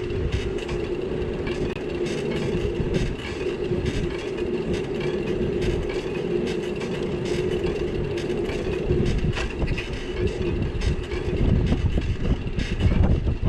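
Bicycle riding over wet city streets, picked up by a GoPro: a low road rumble with many small rattling clicks and a steady hum that stops about eleven seconds in.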